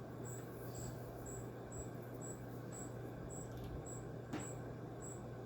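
Short, high-pitched chirps repeating evenly about twice a second over a faint steady low hum, with a single small click about four seconds in.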